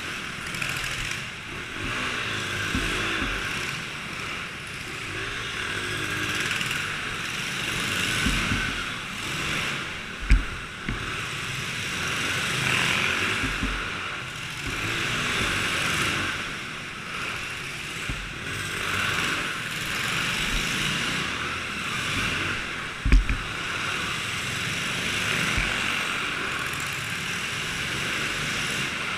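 Small engines of dirt bikes and go-karts running, their pitch rising and falling as they rev and pass. There are two sharp thumps, one about ten seconds in and one near the end.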